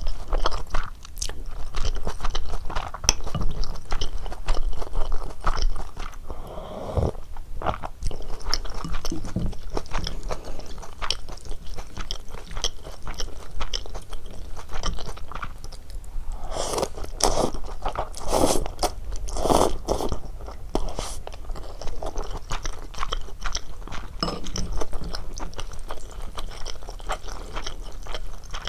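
Close-miked eating sounds of cheese ramen with dumplings: chewing and soft crunching with many small mouth clicks, and a louder stretch of longer sounds about 17 to 20 seconds in.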